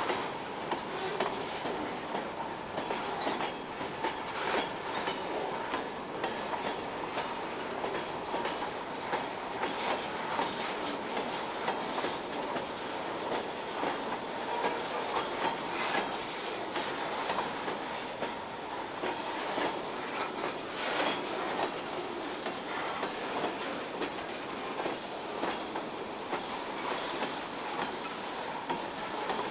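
Freight train's covered hopper cars rolling past at close range: a steady clatter of steel wheels on the rails with many sharp clicks, and the track creaking under the passing cars.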